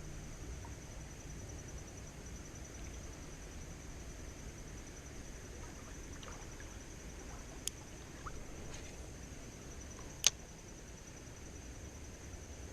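Outdoor creek ambience with a steady, high-pitched insect trill and a low background rumble. Two sharp clicks come near the middle, about two and a half seconds apart, and the second one is the louder.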